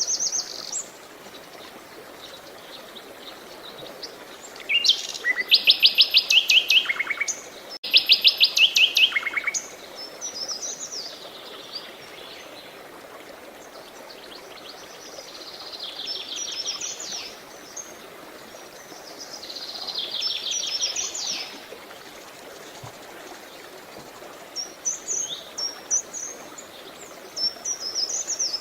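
Songbirds singing in repeated phrases of fast, high trilled notes, loudest about five to nine seconds in, with quicker chirps near the end, over steady running water.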